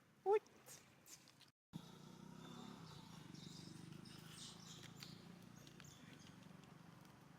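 Baby monkey giving one short, rising squeal about a third of a second in. After a brief cut, a steady low background rumble follows.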